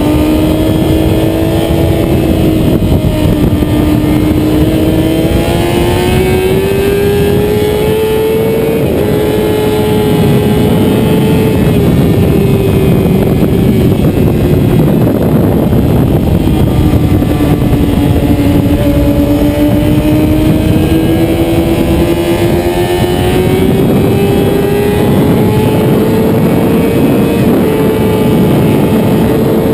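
Motorcycle engine running hard at high revs on a race track. Its pitch climbs and sags slowly as it accelerates and eases off, over a steady rushing noise.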